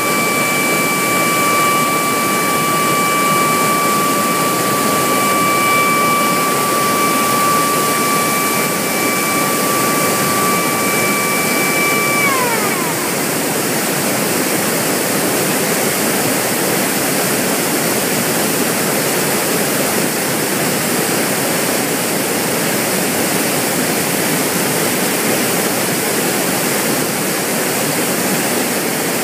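Water roaring steadily out of the Takizawa Dam's outlets during a test discharge. For the first twelve seconds or so a steady high tone sounds over it, then drops in pitch and stops.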